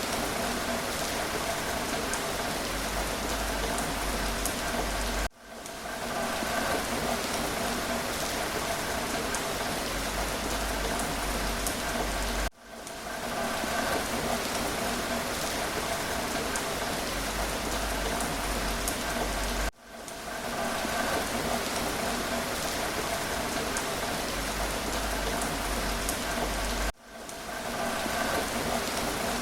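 Steady rain, with single drops ticking now and then. About every seven seconds the sound drops out for an instant and fades back in, where a short recording loops.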